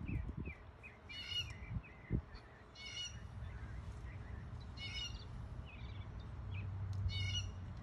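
A bird calling over and over, a short harsh squawk about every two seconds, with softer chirps in between.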